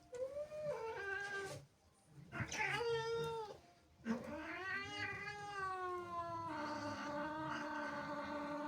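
Domestic cat yowling angrily: three drawn-out wailing calls, the last one long, rising and falling in pitch and then held at a steady pitch.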